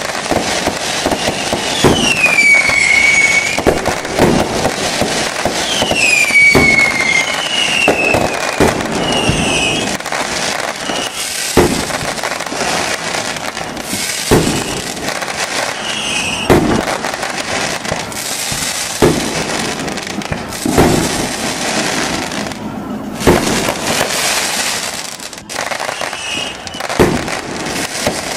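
Aerial fireworks bursting in a display, one bang every second or two over a constant crackling background, with falling whistles about two and six seconds in.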